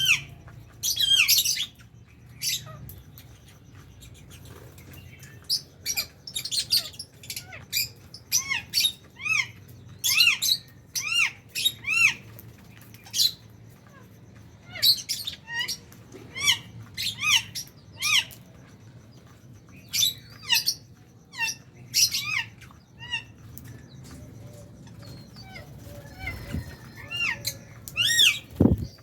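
A flock of lovebirds calling: short, sharp, shrill chirps, each rising and falling in pitch, repeated in quick runs throughout. A single thump just before the end.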